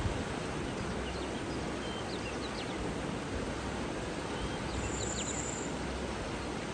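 Steady rushing of flowing water with short, high bird chirps scattered through it, and a brief high, buzzing trill about five seconds in.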